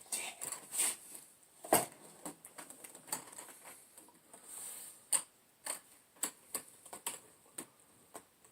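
Packaging being handled during an unboxing: a scatter of irregular clicks, taps and light rustles, with a short rustle about halfway through.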